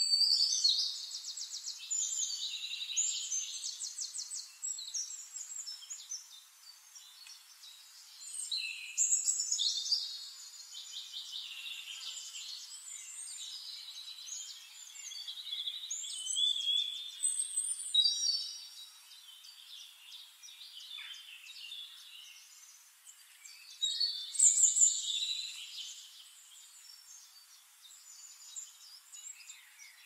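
Songbirds singing long, rapid twittering and warbling phrases, with four loud bursts several seconds apart and quieter song between, over a faint steady hiss.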